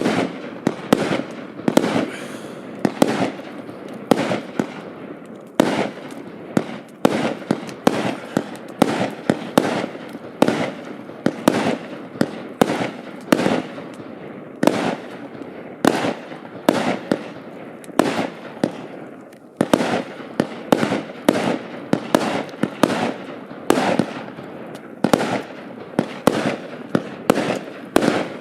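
Hallmark Fireworks 'Squid Game' firework firing shot after shot: sharp bangs come about one to three a second, with crackling between them and a brief lull about two-thirds of the way through.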